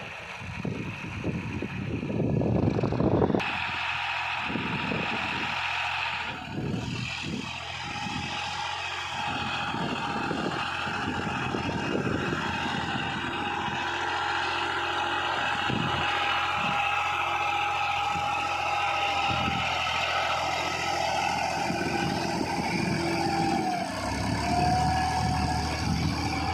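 Tractor engine running steadily while pulling a cultivator through the field, with wind buffeting the microphone in the first few seconds. The engine note dips briefly and recovers near the end.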